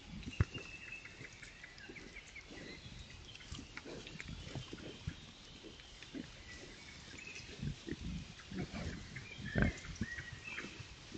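Wild boar grunting in short, scattered low grunts, the loudest about two-thirds of the way through.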